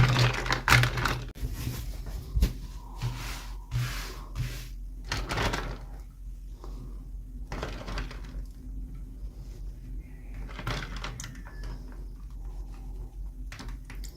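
Irregular rustles, scrapes and light clicks of hands handling toy packaging and small doll pieces during an unboxing, over a faint steady hum.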